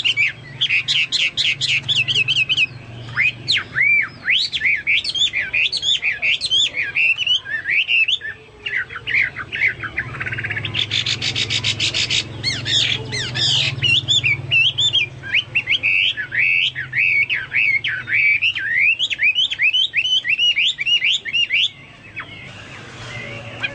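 Chinese hwamei singing a long, varied run of loud whistled phrases that sweep up and down, delivered in the style of the cucak Papua or cucak mas. There is a fast rattling trill about eleven seconds in, and the song breaks off shortly before the end.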